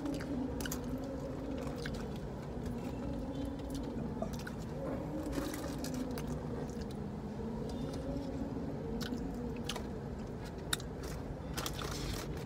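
Close-up chewing and crunching of crispy fried chicken, with scattered crackles from the paper wrapper being handled, over a steady low hum.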